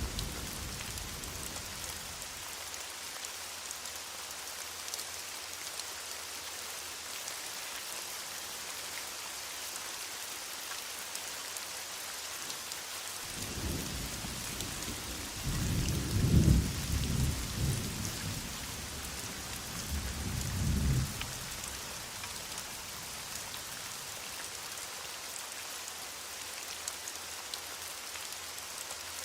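Steady heavy rain falling, with a low roll of thunder starting about halfway through that swells twice over several seconds before fading back into the rain.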